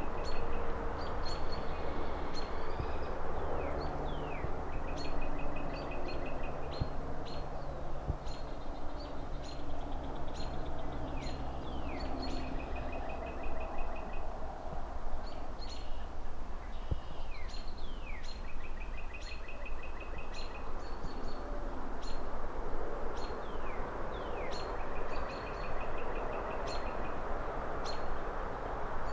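Several birds chirping over and over, with short calls, quick trills and downward-sliding notes, over a steady low rumble of distant city traffic.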